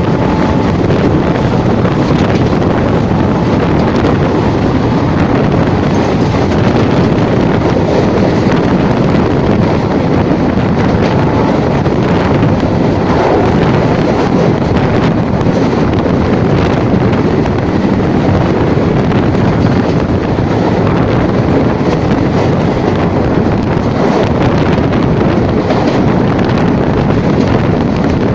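A moving train's steady running noise, with wind buffeting the microphone.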